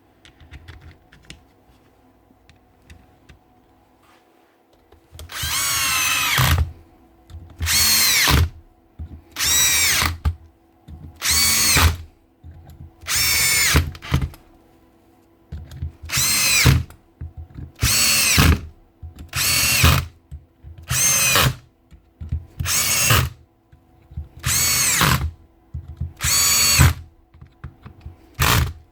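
DeWalt DCH273 18V cordless SDS drill run in short trigger pulls, about thirteen bursts of a second or so each, the motor winding up and running down every time. The bursts begin after about five seconds of faint handling clicks.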